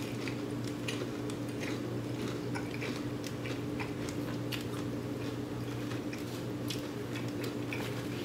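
A person chewing fried chicken close to the microphone: a run of small wet clicks and crunches, over a steady low hum.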